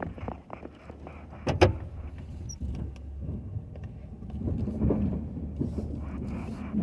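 Pickup truck engine running steadily, with a sharp knock about a second and a half in and a smaller one near the end.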